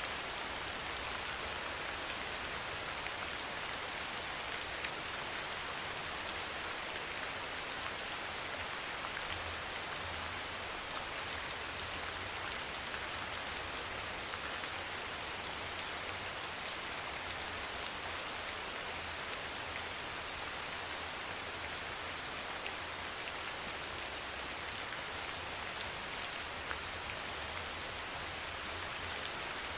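Steady soft rain falling, a constant even patter with fine scattered drop ticks.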